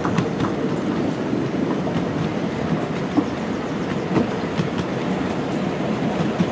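Miniature steam railway train running, heard from aboard an open carriage: a steady rumble of wheels on the track with irregular clicks.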